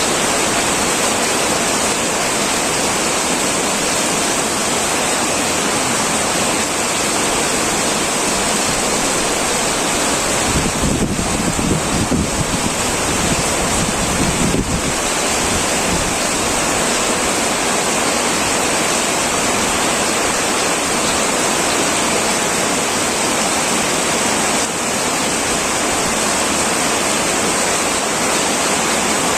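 Heavy rain pouring onto a tin roof as a dense, steady hiss, with a deeper rumble swelling for a few seconds about a third of the way in.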